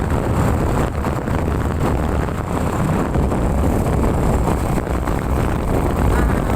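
Steady rush of a moving motorcycle ride: wind buffeting the microphone over the engine and road noise.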